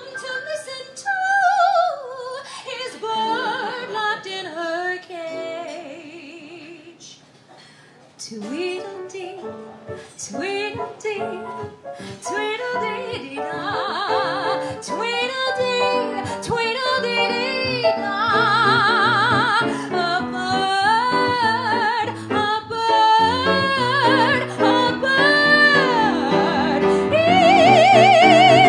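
A woman singing a musical-theater number in an operatic style over instrumental accompaniment, with long held notes and wide vibrato. The music drops down about 7 seconds in, then builds to its loudest, highest held note near the end.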